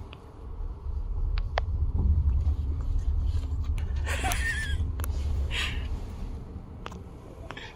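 Wind buffeting the microphone: a low rumble that swells about a second in, holds, and dies away near the end, with a few faint clicks and a brief faint squeak about four seconds in.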